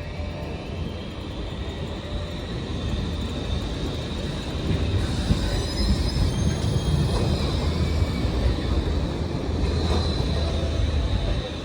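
Tram running on street rails, a low rumble that grows louder about five seconds in, with a brief high-pitched wheel squeal.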